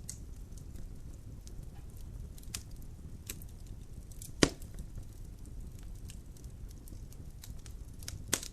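Logs burning in a fireplace: scattered sharp crackles and pops over a steady low rumble of flame, with one loud pop about four and a half seconds in and another near the end.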